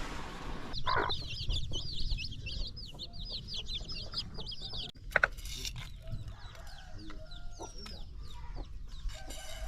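Chickens calling: a fast run of high, repeated peeps lasting about four seconds, then scattered calls and a few clicks.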